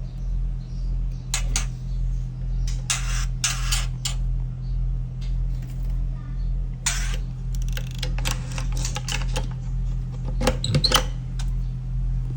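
White-rumped shama giving short harsh scolding calls: a few single rasps, then a quick run of them in the last few seconds. This is the male's alarm at someone disturbing the nest where the female is incubating. A steady low hum runs underneath.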